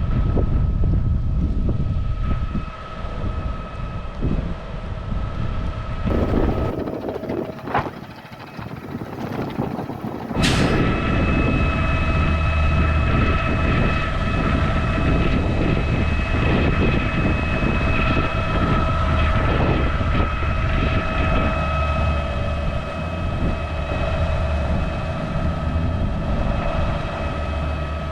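Truck running, a steady low rumble with a droning whine. About ten seconds in a sharp sound cuts in, and the whole runs louder from there.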